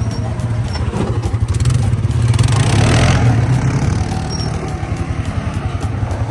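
Four-wheeler (ATV) engine running, pulsing and getting louder about two to three seconds in, then easing off.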